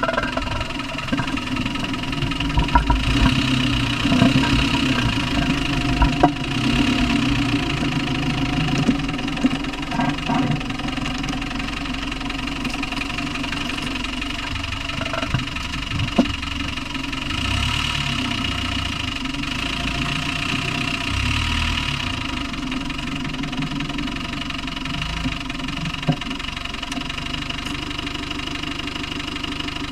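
Land Rover Discovery 1 300Tdi 2.5-litre four-cylinder turbodiesel running, with a knocking noise whose cause the owner does not know. A few sharp knocks stand out above the steady running at irregular moments.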